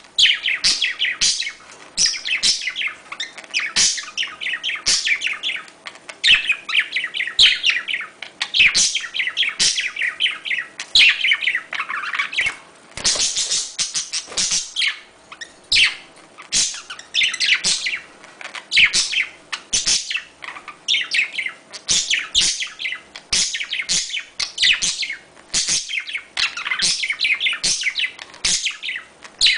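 Budgerigars chattering and warbling in quick runs of high chirps, broken by short pauses: budgie mating-call sounds used to get pet budgies into breeding condition.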